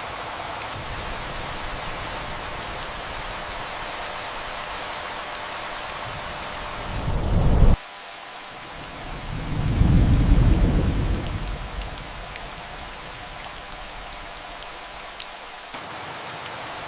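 Steady rain falling, with two low rolls of thunder. The first builds and cuts off suddenly about halfway through; the second swells a couple of seconds later and fades away.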